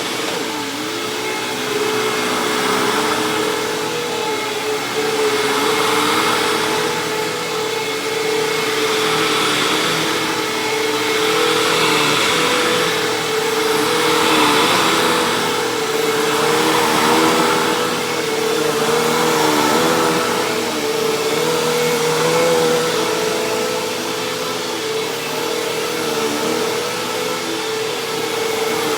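Hoover WindTunnel Plus upright vacuum cleaner running, very loud. A steady motor whine sits over rushing air, and the level swells and eases every couple of seconds.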